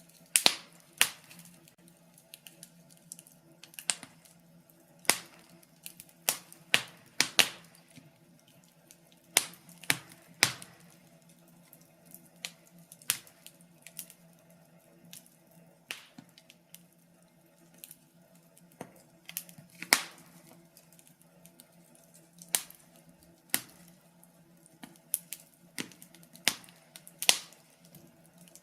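Wood fire crackling, with irregular sharp pops and snaps of burning logs, some much louder than others, over a faint steady hum.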